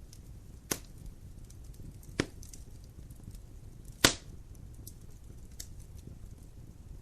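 Wood fire crackling in a fireplace over a low steady rumble, with small crackles and three sharp pops, the loudest about four seconds in.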